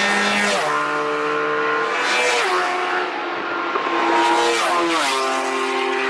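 Superbike racing motorcycles running at speed on track, passing close one after another; each engine holds a steady high pitch, then drops in steps as it shifts up a gear.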